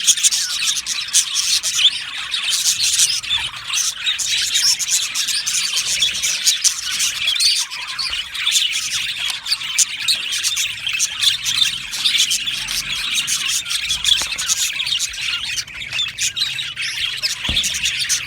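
A flock of budgerigars chattering and chirping, many overlapping warbles and squawks.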